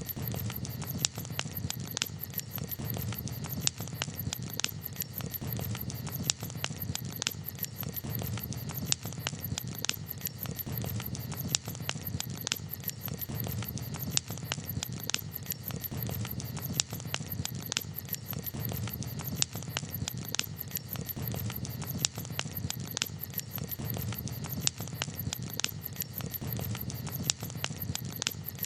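Wood campfire crackling, with irregular sharp pops and snaps several times a second over a low steady rumble of the flames.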